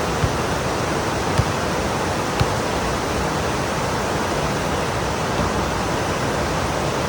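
Heavy rain pouring steadily, with a few sharp taps in the first two and a half seconds.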